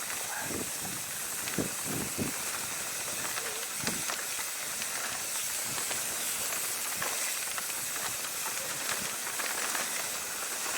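Steady hiss of wind and knobby tyres rolling over a dirt trail on a mountain bike ride, with scattered short knocks and rattles from the bike over bumps.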